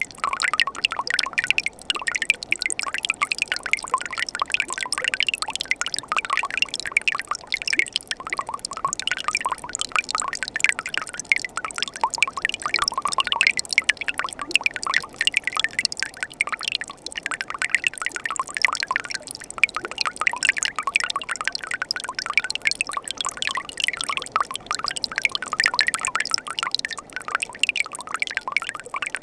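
Mountain stream water running and splashing over rocks, a steady babbling with quick small splashes, among ice in winter.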